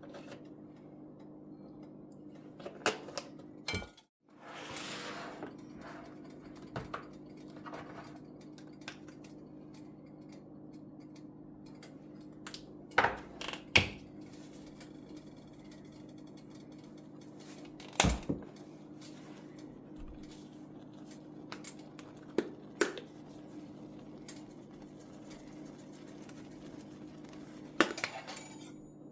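Dishes, pots and cutlery clinking and knocking now and then during kitchen work, over a steady low hum. The sound drops out briefly about four seconds in, then a short hiss follows.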